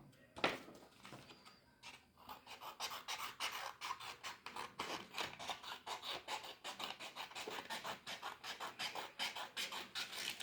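Scissors cutting through paper, in a quick run of short snips at about five a second that starts about two seconds in, after a single snip near the start.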